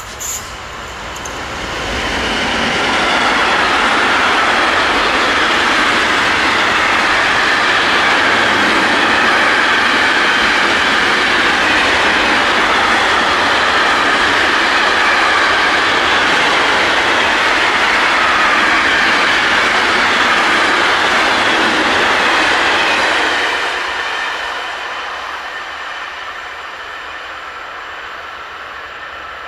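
An electric train passes close by on the track, loud for about twenty seconds, then fading away as it goes.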